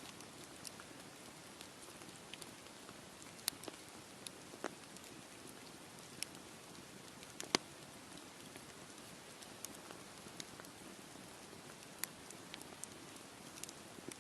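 Campfire crackling: a low steady hiss with irregular sharp pops and snaps of burning wood, the loudest pop about seven and a half seconds in.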